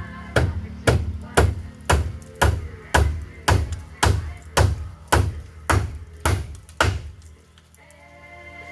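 Heavy, evenly spaced striking blows, about two a second, thirteen in all, stopping about seven seconds in, typical of work by hand on the house under repair. A fainter steady tone with several notes comes in near the end.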